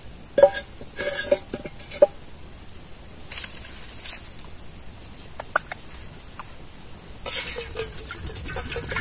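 A bird gives a quick run of about five short clucking calls in the first two seconds, followed by a few brief rustling noises.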